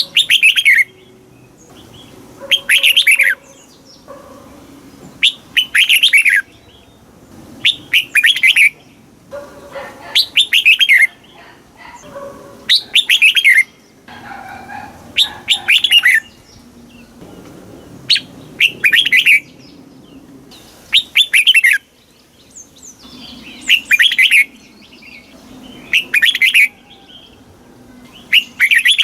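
Red-whiskered bulbul singing loud, quick warbled phrases, each about a second long, repeated every two to three seconds.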